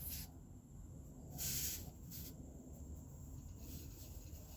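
Butane gas hissing in spurts as a gas canister is pressed into the refill valve of a gas soldering iron: a brief spurt at the start and a longer one about a second and a half in.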